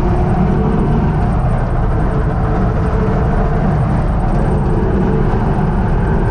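UTB U650 tractor's four-cylinder diesel engine running steadily under load, with no change in pitch.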